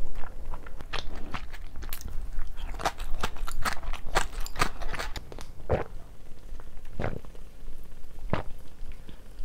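A person chewing food with wet clicks and crisp crunches, close to a clip-on microphone. Near the end the sounds thin to a few single gulps as she drinks fizzy soda from a can.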